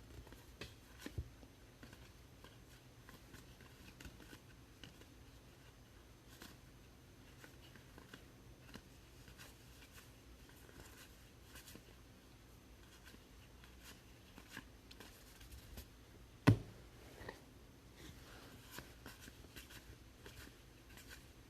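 Quiet handling of baseball card packs and cards: faint rustles, slides and small ticks scattered throughout, with one sharp knock about sixteen seconds in.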